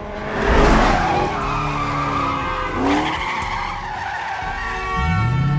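Motorcycle engine revving with tyre skids. A loud burst of noise comes about half a second in, and the engine pitch sweeps upward near the end.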